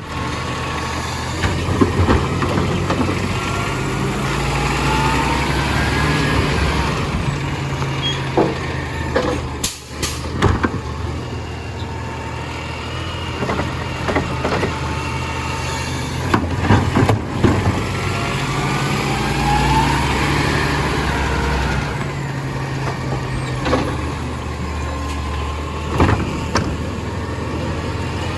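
Compost collection truck running steadily. Its engine swells twice with a whine that rises and falls, about 13 seconds apart, and sharp knocks and clunks come in between.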